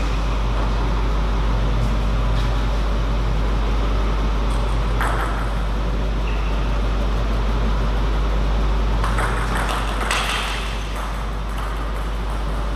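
Steady low hum and broad hall noise, with a few faint, sharp, irregular clicks of a table tennis ball.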